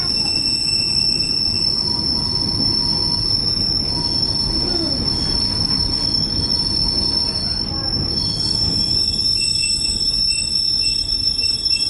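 Passenger train running on rails: a steady low rumble with a continuous high-pitched wheel squeal over it.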